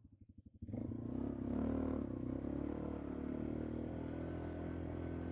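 ATV engine ticking over at idle, then throttled up less than a second in and running steadily at higher revs.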